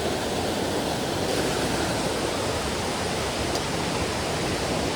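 Mountain stream rushing over rocks: a steady, even hiss of fast-flowing water.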